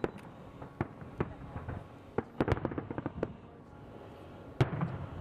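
Aerial fireworks bursting: a string of separate bangs, a quick cluster of cracks around the middle, and the loudest bang near the end.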